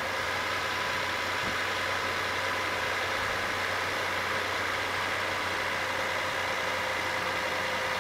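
2002 Toyota 4Runner's 3.4-liter V6 idling steadily, heard from the open engine bay.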